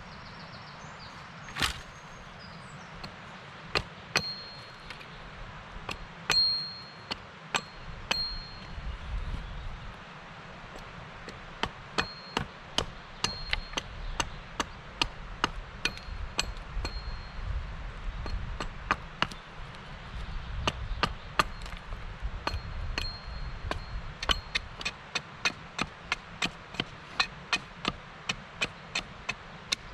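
Repeated chopping strikes of a blade into wood, a few seconds apart at first and then about two a second. Some strikes are followed by a brief high metallic ring.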